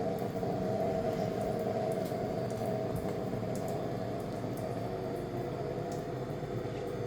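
A machine running with a steady whirring hum, with a few faint ticks over it.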